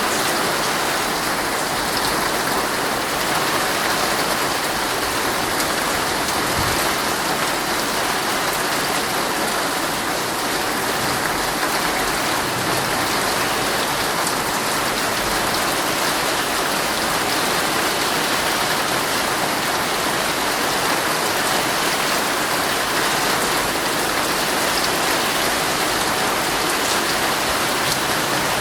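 Heavy rain drumming steadily on a tent, a dense even hiss with scattered closer drop hits.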